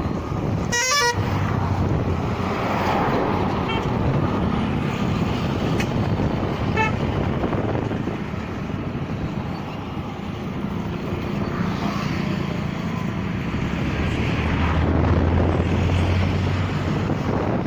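Steady outdoor background noise with a short horn toot about a second in, and a low motor hum that swells near the end.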